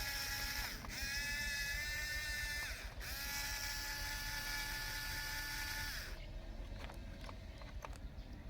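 Small electric drive motors of a Huina 1569 RC bulldozer whining in two runs. The first lasts about two seconds, the second about three, each spinning up quickly to a steady pitch and then cutting off. After the motors stop there are only faint light clicks.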